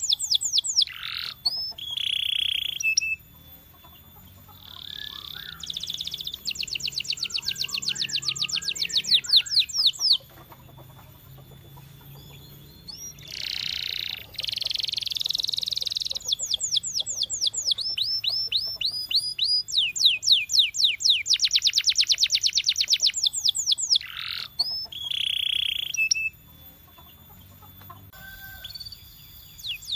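Domestic canary singing: fast trills of one note repeated many times a second, switching from one trill to the next, with a few short pauses between phrases.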